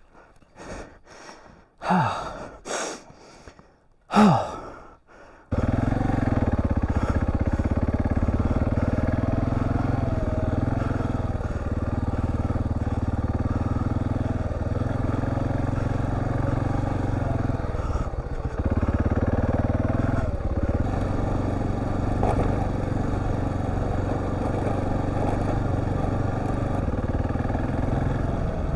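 A man's gasps and strained breaths for the first few seconds. Then a Husqvarna TR650 motorcycle engine cuts in suddenly and runs steadily under way, with a few brief dips in revs.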